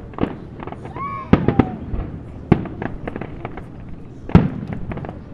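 Fireworks going off: a run of sharp bangs and crackles at uneven intervals, the loudest about four seconds in.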